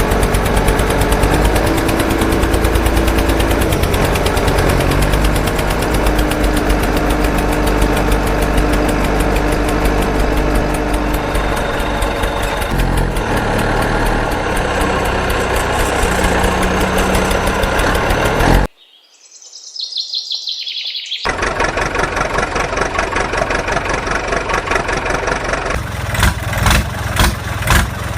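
Engine-like vehicle running sound with a fast, even pulse, cut off abruptly about two-thirds of the way in; after a short near-silent gap a different, more throbbing engine sound takes over.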